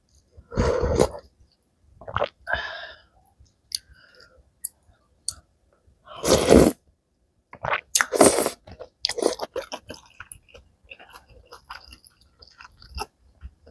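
Malatang being eaten close to the microphone: chewing and biting, with several loud noisy bursts about half a second long, the loudest near the start and about six seconds in, and small wet clicks between.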